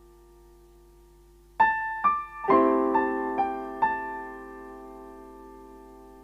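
Short piano sting: after a faint fading tail, about six notes are struck in quick succession, roughly half a second apart, and then ring out together as a chord that slowly fades.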